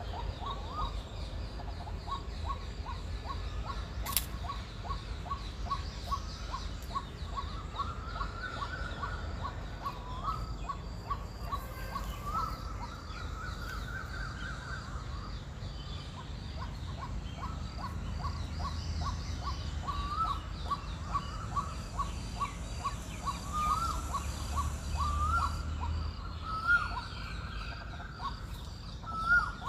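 Birds calling: one bird repeats a short note about three times a second in long runs, broken now and then by rising calls, while other birds chirp faintly at a higher pitch. A steady low rumble runs underneath.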